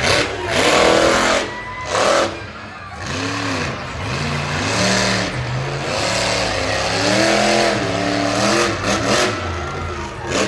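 Monster truck engine revving up and down several times, its pitch rising and falling with each rev.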